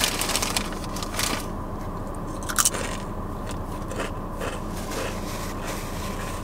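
A person chewing a mouthful of food, with a series of short crunches, the loudest about two and a half seconds in.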